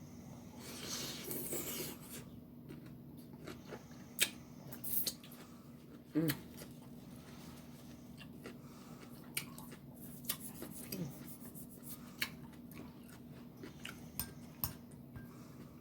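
A person chewing and eating food, with scattered small clicks and taps.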